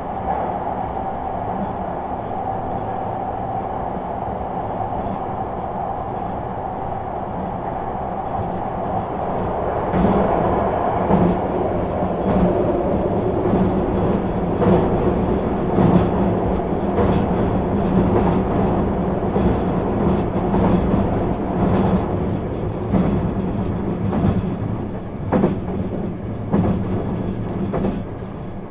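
Running sound inside the cabin of a JR East 651 series electric train: a steady rumble with a held tone. About ten seconds in, it turns louder and rougher, with repeated clicks of the wheels over rail joints.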